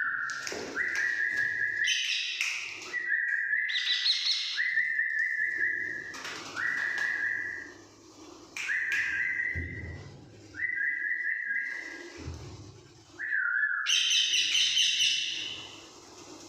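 A series of about nine clear whistled notes, each held about a second, several sliding up at the start, with a few bursts of higher, harsher parrot calls between them.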